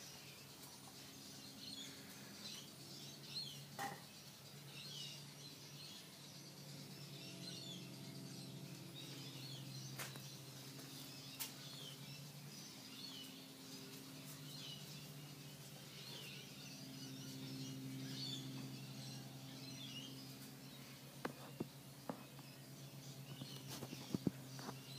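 Faint birdsong, many small chirps throughout, over a low steady hum that swells and fades. A few sharp clicks near the end.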